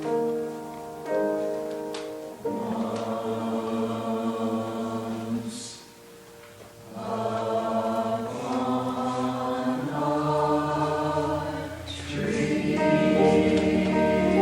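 Choir singing with keyboard accompaniment. The sound dips briefly about six seconds in and grows fuller near the end.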